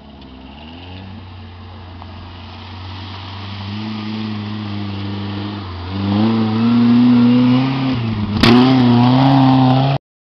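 Off-road 4x4's engine pulling under load on a steep dirt climb, growing louder and revving higher about six seconds in. There is a sharp knock near the end, and then the sound cuts off suddenly.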